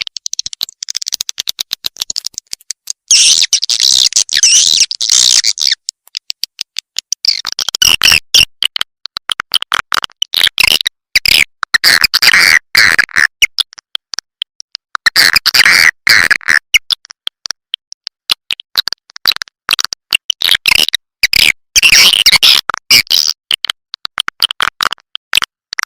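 Swiftlet calling sound, a lure recording of the kind played to draw swiftlets into a nesting house. Rapid trains of dry clicks run through it, broken every few seconds by bursts of high, busy twittering chirps.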